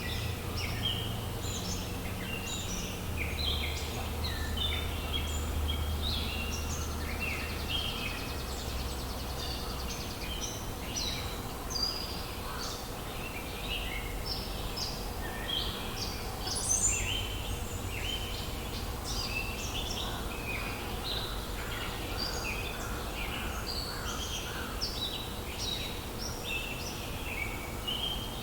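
A chorus of songbirds singing, many short chirps and trills overlapping throughout, over a low steady rumble.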